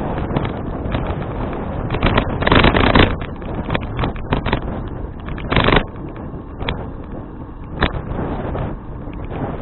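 Wind buffeting an action camera's microphone while cycling, a steady rumbling rush, with several brief louder knocks or gusts, the strongest about two and a half and five and a half seconds in.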